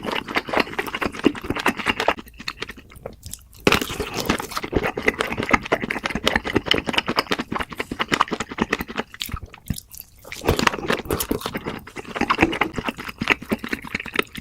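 Close-miked eating sounds: a person chewing and crunching food in quick, irregular bites, with two short pauses, one about two seconds in and one about ten seconds in.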